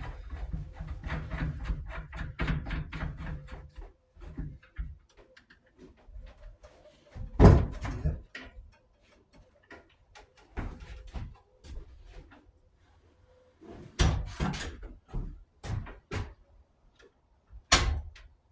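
Clicks, clacks and knocks of a sliding compound miter saw being handled and adjusted, with three louder thumps about seven and a half, fourteen and eighteen seconds in. No motor is running.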